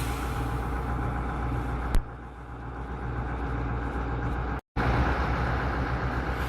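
Heavy diesel engine of a Kirovets K-700 tractor running steadily. A sharp click about two seconds in, after which the sound is quieter for a while. It cuts out completely for a moment and comes back louder.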